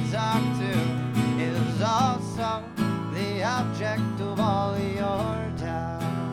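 Acoustic guitar strummed through an instrumental break in a folk-blues song, over a melody line that bends up and down in pitch.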